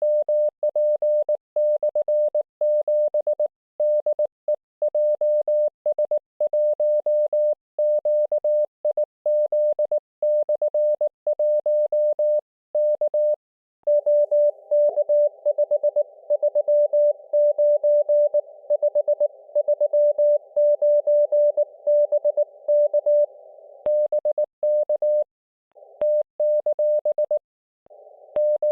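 Morse code (CW) on the 7 MHz amateur band, a wabun (Japanese Morse) chat: a single steady tone keyed into dots and dashes by an IC-705 transceiver. For about ten seconds in the middle the tone comes with a band of receiver hiss around it.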